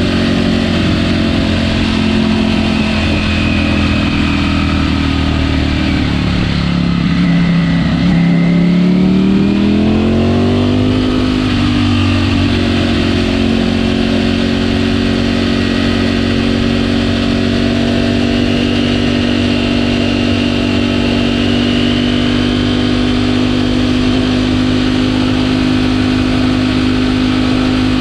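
Ducati Panigale V4 S V4 engine with stock exhaust, heard from on the bike while riding. It runs at a steady pitch, sinks a little about six to eight seconds in, rises smoothly as it accelerates, then holds a steady cruise.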